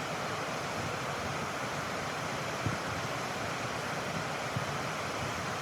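Colorado River rushing, a steady even wash of moving water, with a few soft low thumps about halfway through.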